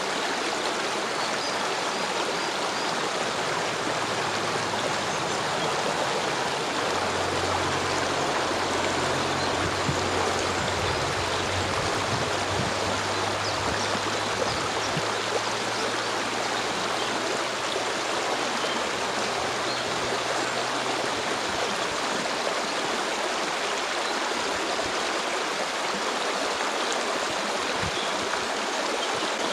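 A stream flowing steadily: an even, continuous rush of water.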